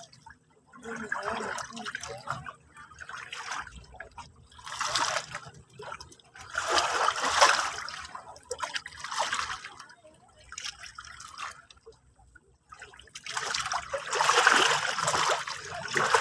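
Sea waves washing in, a series of irregular surges each swelling and fading within a second or two, the strongest near the middle and toward the end.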